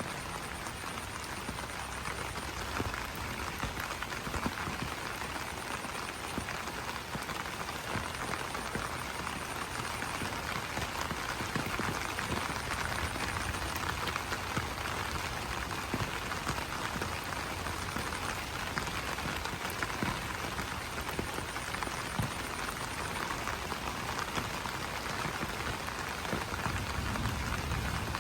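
Steady rain pattering on broad banana leaves, a continuous hiss dotted with individual drop ticks. Faint, high, rapidly pulsing calls come and go in the background several times.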